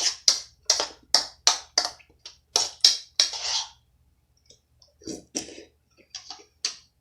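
Close-miked chewing of crunchy Coco Crunch chocolate cereal, with crisp crunches about three a second for the first three and a half seconds. After a pause come a few softer crunches.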